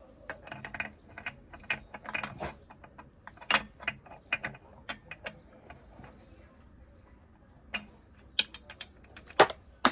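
Hand tools working on motorcycle engine parts: a run of quick, irregular metallic clicks for the first five seconds or so, then a pause and a few sharp metal knocks near the end, the loudest just before it finishes.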